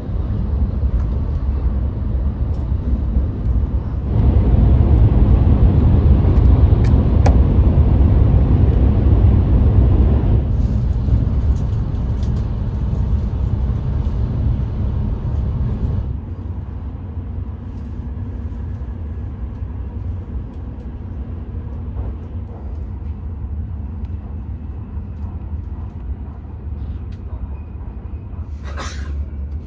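Hayabusa Shinkansen cabin noise: the steady low rumble of the bullet train running, heard from inside the car. It steps louder about four seconds in and eases again around ten and sixteen seconds. A brief sharp sound comes near the end.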